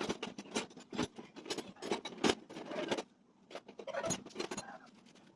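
An irregular run of sharp clicks, taps and scrapes, as of hands and tools working on hard parts, with a short lull about three seconds in.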